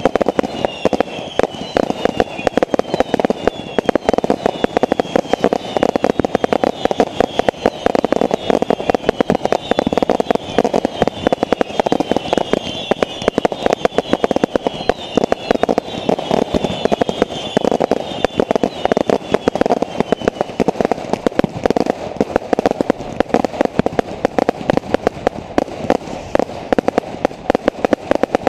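Fireworks barrage: a continuous, rapid run of bangs and crackles. Over it, short falling whistles repeat for roughly the first twenty seconds, then stop.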